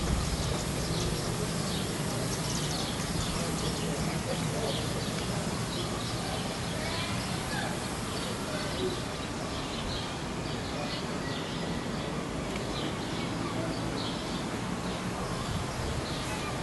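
Small birds chirping many times over a steady low background hum.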